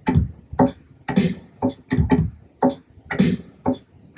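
A programmed drum-kit beat playing back through an amp plugin with overdrive and reverb, giving it a crunchy, distorted sound. Heavy hits come about once a second, with lighter hits and short high ticks between them.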